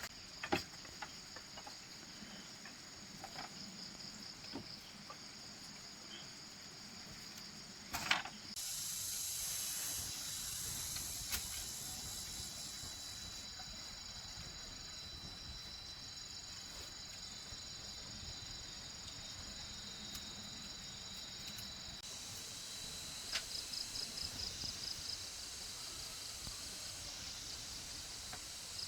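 Forest insects chirping steadily at a high pitch, with a pulsing chirp at about four pulses a second near the end. A single knock about eight seconds in.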